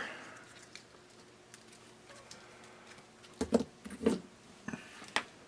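A few light clicks and taps from handling small tools and wires at a workbench, over a quiet room: a pair about two-thirds of the way in and one more near the end.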